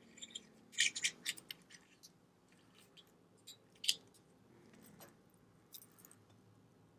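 Faint, sharp little clicks and taps of small watch parts and tools being handled while a watch movement is settled in its case: a quick cluster about a second in, then scattered single clicks.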